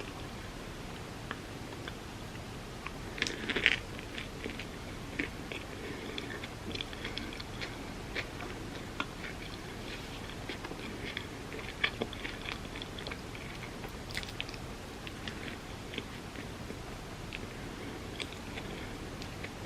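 A person biting and chewing food, with crisp crunches and small wet clicks; the loudest crunchy bite comes about three and a half seconds in.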